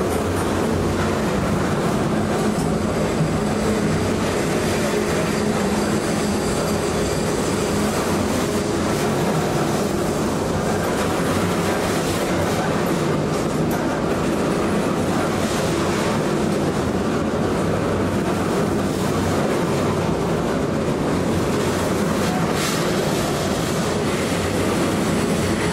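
A train running along the track, a steady loud noise of wheels on rails, with faint high-pitched tones during roughly the first ten seconds.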